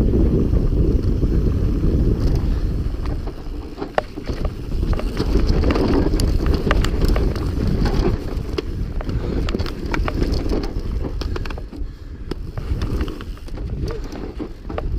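Wind buffeting the microphone of a camera riding along on a mountain bike at speed, with scattered clicks and knocks from the bike rattling over rough ground, one sharp knock about four seconds in.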